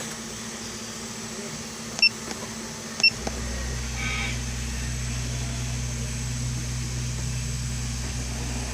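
Two short electronic beeps about a second apart, typical of an OBD scan tool on the car's diagnostic port, followed by a steady low hum that sets in a little after the second beep.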